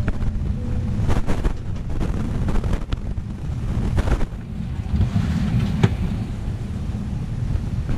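Airliner cabin noise aboard an Airbus A320 on the ground: a constant, uneven low rumble with a scattered handful of faint clicks and knocks.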